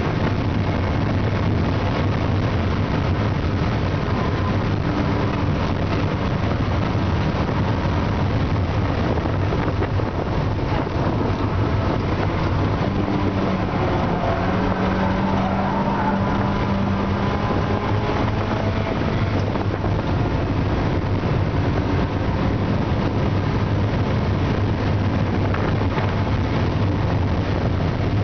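The 1.6-litre B6ZE four-cylinder engine of a 1992 Eunos Roadster (Mazda MX-5) running hard on track, heard from inside the open cabin with wind and road noise. The engine note rises and falls around the middle.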